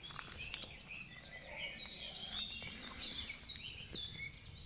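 Several small birds singing and chirping, with many short overlapping calls, over a steady low rumble and a few light clicks.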